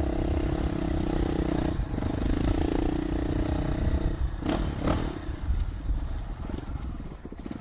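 Dual-sport motorcycle engine running steadily while being ridden, its note dipping briefly about two seconds in and then falling off after about four seconds as it slows. Two short clatters sound just after the engine eases off.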